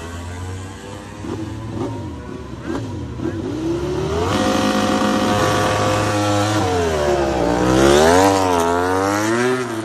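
Racing motorcycle engine at high revs, its pitch climbing, holding steady, then dropping and climbing again; loudest about eight seconds in.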